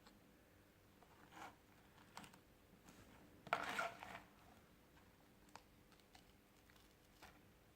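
Quiet, sparse handling sounds of plastic pry tools working at a smartphone's glued back cover: a few faint clicks and one short scrape and crackle a little over three seconds in.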